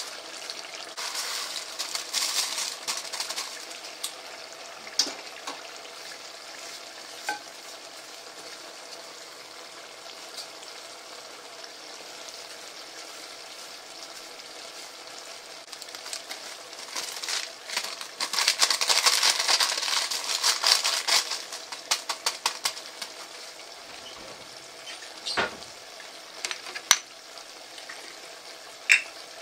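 Rice and chicken pieces sizzling steadily in hot oil in a large metal pot, stirred with a wooden spatula, with louder spells of stirring and scraping about two seconds in and again from about seventeen to twenty-one seconds. A few sharp clicks of the spatula on the pot come near the end.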